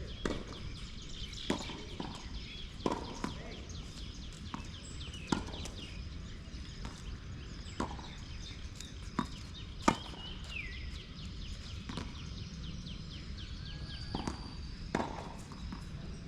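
Tennis balls being struck by rackets and bouncing on the court: sharp, irregular pops about every second or so.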